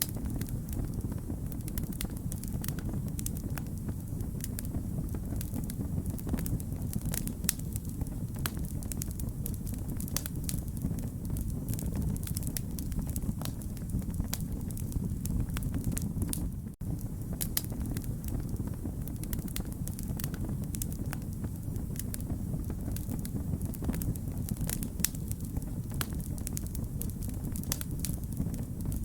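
Wood fire crackling: a steady low rumble with frequent sharp pops and snaps of burning wood, and a momentary drop-out about seventeen seconds in.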